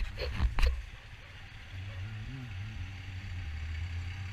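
Bajaj Avenger single-cylinder motorcycle engine running steadily at low street speed, its pitch swelling briefly about two seconds in. A few loud thumps come within the first second.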